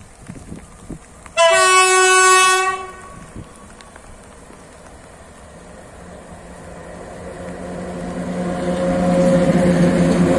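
PKP Cargo ET22 electric locomotive sounding its horn once, a single pitched blast of about a second and a half starting just over a second in. After it the approaching freight train grows steadily louder, with a steady hum, until the locomotive draws level near the end.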